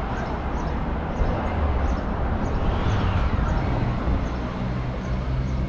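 Street background at a car meet: a steady low engine rumble from cars nearby, with a swell that rises and falls about three seconds in as a vehicle passes.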